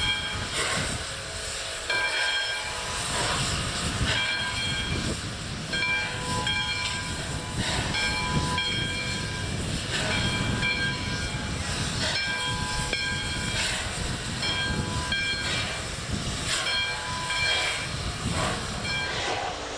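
A 2-8-0 steam locomotive, Nevada Northern No. 93, hissing steam, with many short clusters of ringing tones breaking in every second or two.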